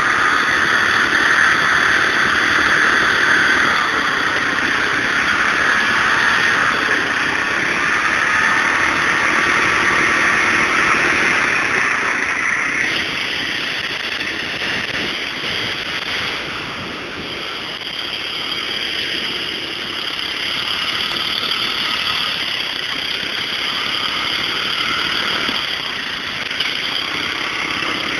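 Murray garden tractor's engine running steadily as the tractor is driven, easing off slightly about halfway through and then picking up again.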